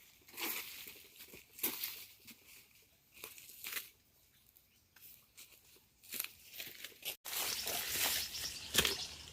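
Irregular rustling, crinkling and tearing sounds in short separate bursts, as of dry plant material being handled. About seven seconds in there is an abrupt cut, after which a denser, louder rustling follows.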